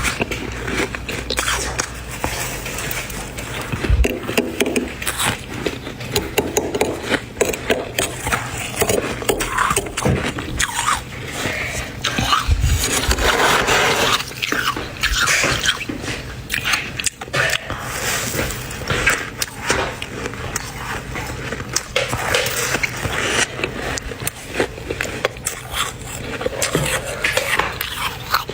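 Spoon scraping dry, flaky freezer frost and big bites of it crunching, a dense, unbroken run of squeaky scrapes and crunches.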